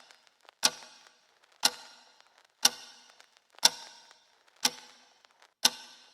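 A sharp click repeating evenly about once a second, six times, each click followed by a short fading ring.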